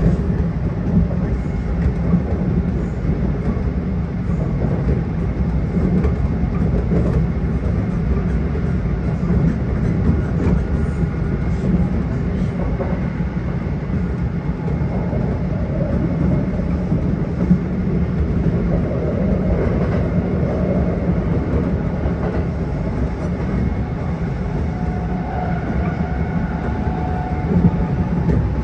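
Kintetsu 1252 series electric train running between stations, heard from inside the car: steady wheel and track noise.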